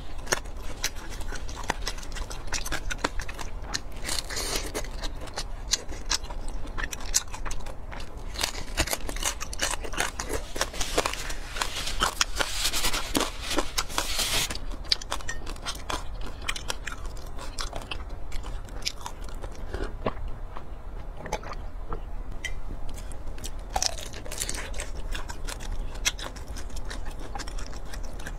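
Close-miked chewing and crunching of crispy-crusted fried pork belly, with many small clicky bites and mouth sounds. There are a few seconds of louder noise around the middle, while the pork is being pulled apart by a gloved hand.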